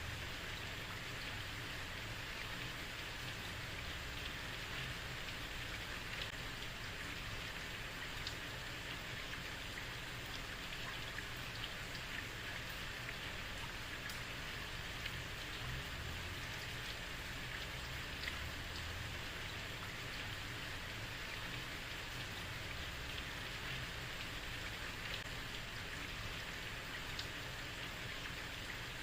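Heavy rain falling on a street: a steady hiss of rainfall with scattered individual drop impacts and a low rumble underneath.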